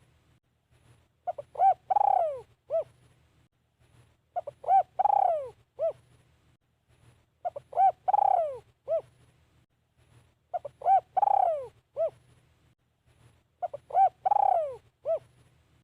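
Caged decoy spotted dove cooing: each phrase is two short coos, a long falling coo and a short final note, repeated at an even pace about every three seconds, five times.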